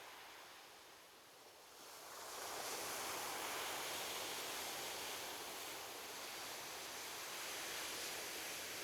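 Ocean surf: the wash is low for about the first two seconds, then swells as a wave breaks, and the rush of water carries on strongly.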